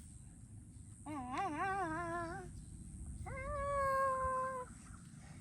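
A child's voice making two drawn-out sounds: the first wavers up and down for about a second and a half, the second is higher and held steady.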